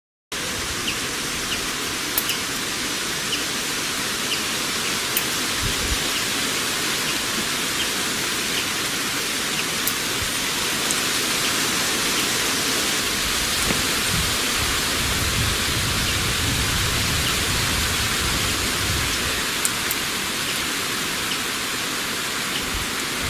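Steady heavy rain, with scattered ticks of single drops. It starts suddenly, less than half a second in.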